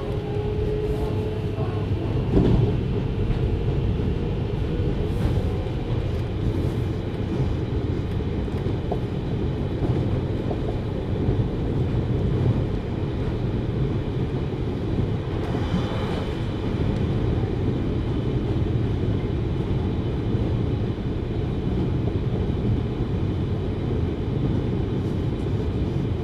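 JR Hokkaido 733 series electric train running, heard from inside the car: a steady rumble of wheels on rail, with one louder knock about two and a half seconds in.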